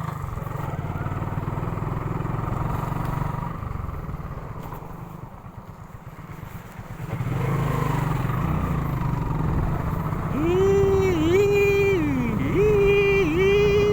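Motorcycle on the move, with its engine and a low, steady rumble of wind on the microphone. About ten seconds in, a voice with held, sliding pitches comes in over it.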